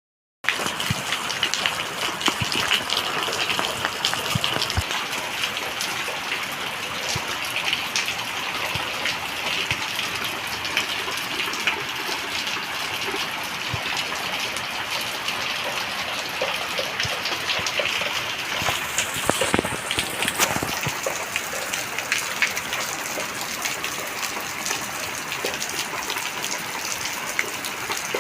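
Heavy rain pouring down: a dense, steady hiss of rainfall with countless drops spattering, a little louder for a moment about two-thirds of the way in.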